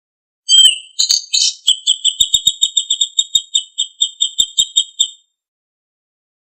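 Songbird song: a few high whistled notes, then a fast run of sharp, evenly repeated notes, about six a second, that stops abruptly about five seconds in.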